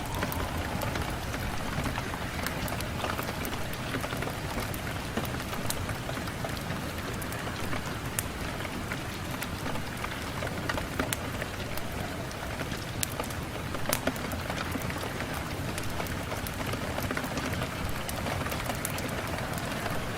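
Steady rain falling on a window, an even hiss with scattered sharp drop ticks; one tick about fourteen seconds in is louder than the rest.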